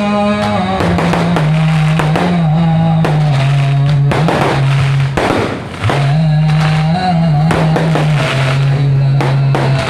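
Music with a held, low melody line that steps between notes, mixed with fireworks bangs and crackles throughout.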